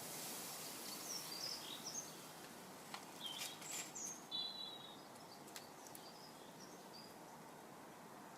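Small garden birds giving short, high chirps and calls, scattered through a steady background hiss, with a few sharp clicks in the middle.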